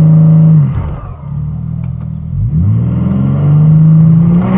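BMW G80 M3's twin-turbo straight-six revving while the car is stopped: held at steady revs, the revs drop away about half a second in, then climb again about two and a half seconds in and are held there.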